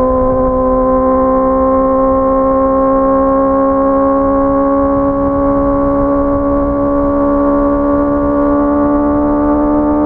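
Honda CBR650R's inline-four engine running at steady high revs under way, its pitch climbing slowly and evenly.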